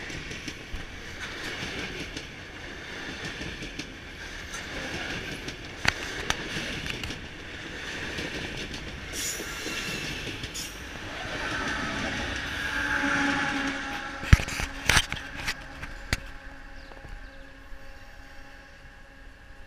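Freight train wagons rolling past close by, wheels clattering over the rail joints with a steady rumble. A wheel squeal rises about two-thirds of the way through, then several sharp metallic knocks, the loudest sounds, before the noise dies down near the end.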